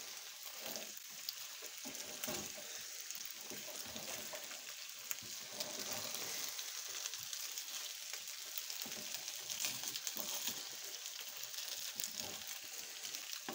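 Pelmeni sizzling and crackling as they fry in fat in a frying pan, the water having boiled off, while a wooden spatula scrapes and stirs them around the pan.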